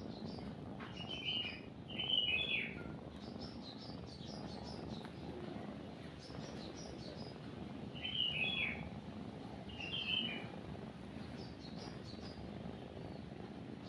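Songbirds chirping in short, bright phrases, loudest about one, two, eight and ten seconds in, over a cat's steady low purring.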